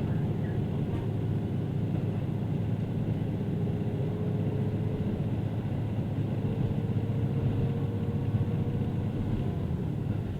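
Diesel railcar running between stations, a steady low rumble heard from on board.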